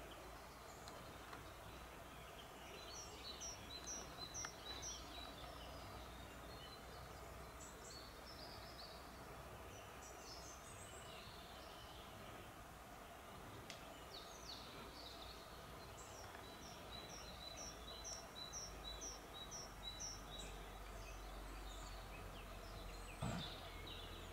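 Faint outdoor ambience with a steady background hiss; a small songbird sings two runs of quick, repeated high notes, a few seconds in and again past the middle, with scattered chirps between. A soft low knock comes near the end.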